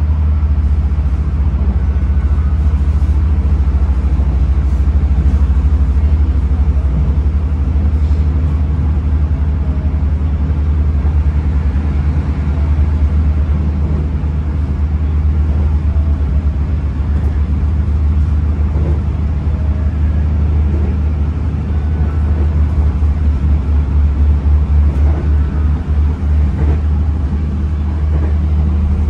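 Interior sound of a diesel passenger train under way: a steady, deep running hum from the carriage. For a few seconds near the end the level pulses quickly and unevenly.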